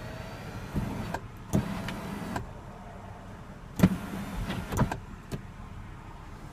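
Power glass moonroof mechanism of a BMW X6: its electric motor whirs for about the first second, then comes a series of sharp clicks and clunks, the loudest about four seconds in.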